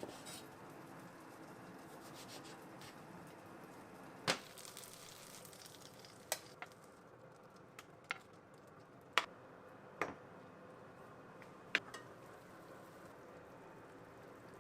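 Food frying quietly in a pan, with about seven sharp clicks of a utensil against the pan or dishes, the loudest about four seconds in.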